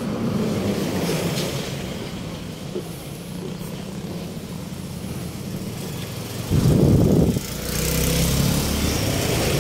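Street traffic: road vehicles running with a steady low rumble, and a short loud low burst of noise about two-thirds of the way through, followed by a steady engine hum.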